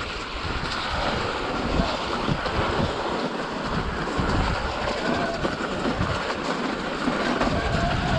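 Wind buffeting the microphone over the rumble and rattle of a bicycle riding over rough trail.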